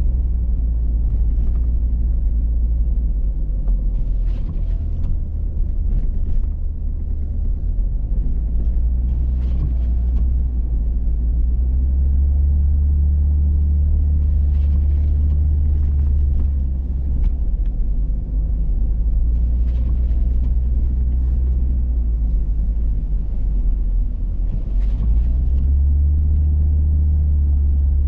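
Hummer H3 4x4 driving on snowy roads: a steady low rumble of engine and tyres that swells and eases every several seconds, with short hissy noises now and then.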